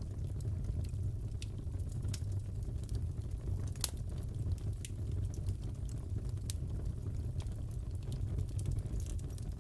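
Crackling wood fire in a fireplace: a steady low rumble of flames with irregular sharp crackles and pops, one louder pop about four seconds in.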